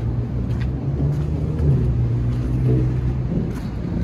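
A motor vehicle's engine running as a steady low hum, its pitch stepping up slightly about a second in and then holding, over a low rumble.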